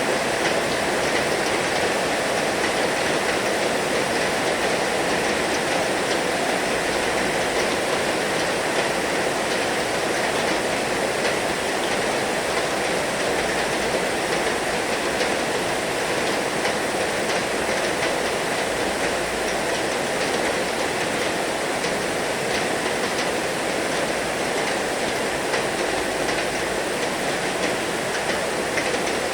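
Heavy rain falling steadily: a dense, even hiss of many fine drop impacts.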